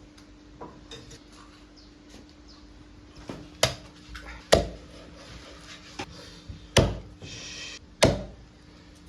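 Knife or cleaver chopping on a wooden cutting board: five or six heavy chops about a second or more apart, with a short scrape between the last two.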